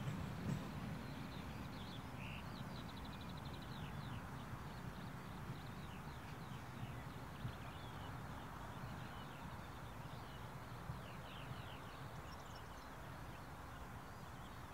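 Passenger train rolling away, its low rumble easing down slowly, with birds chirping and briefly trilling over it.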